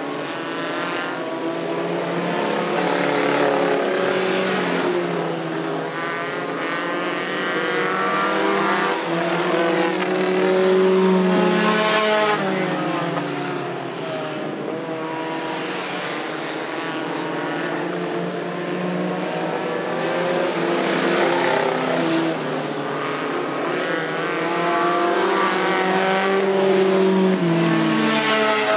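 Several mini race trucks' engines running hard together, their pitches rising and falling as the drivers lift and accelerate around the track, the sound swelling each time the pack comes past.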